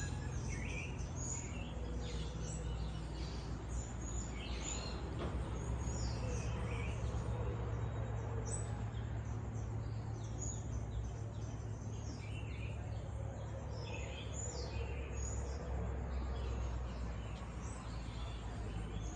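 Tropical birds calling all around: many short chirps and whistles from several birds, scattered throughout, over a steady low rumble.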